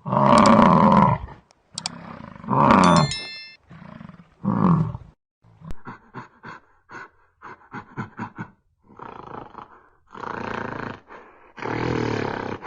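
Animal calls: three loud, drawn-out roaring calls, then a quick run of short grunt-like pulses, then two more longer calls near the end.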